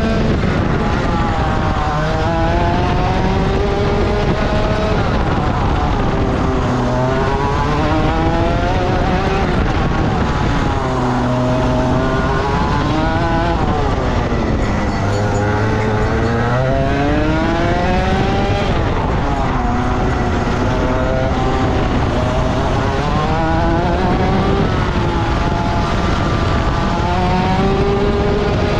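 Rotax Max 125 cc two-stroke kart engine heard onboard, revving up hard along the straights and dropping away under braking for the corners, again and again.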